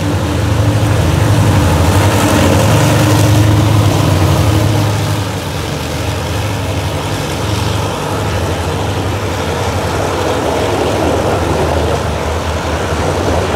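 Alsthom diesel-electric locomotive passing close by with its engine running, the engine hum loudest around three to four seconds in and dropping away about five seconds in. After that, passenger coaches roll past with a steady rumble of wheels on rail.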